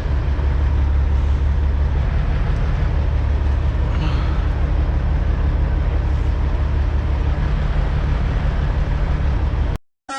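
Semi truck's diesel engine running steadily at low revs, heard from inside the cab; it cuts off abruptly near the end.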